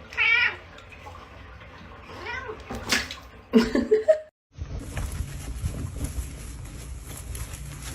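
A cat meowing four or five times in drawn-out calls that waver in pitch. The calls cut off suddenly about halfway through and are followed by a steady, low rushing noise.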